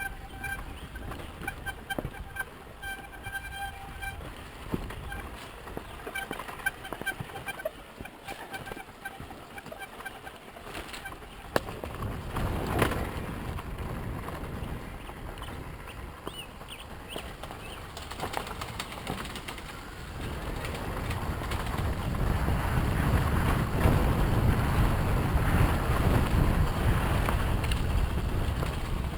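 Yamaha YZ250FX four-stroke single-cylinder dirt bike being ridden on a trail, its engine and wind noise building about twelve seconds in and growing louder later. In the first few seconds a repeated high squeal comes and goes, the brake squeak that WD-40 was just sprayed on to stop.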